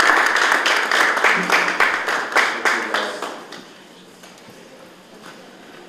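Audience applauding, a dense patter of many hands that dies away about three and a half seconds in.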